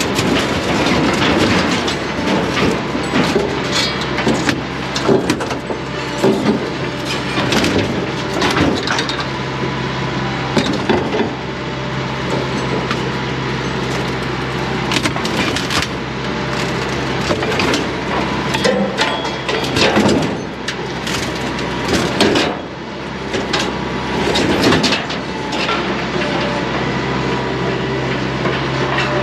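A steady mechanical hum, like an engine running, with many irregular knocks and cracks of hard material being struck or broken.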